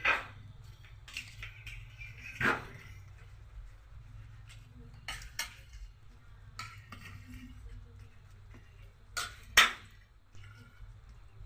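Scattered sharp clinks and knocks of hard objects being handled, the loudest about two and a half seconds in and two close together near the tenth second, over a low steady hum.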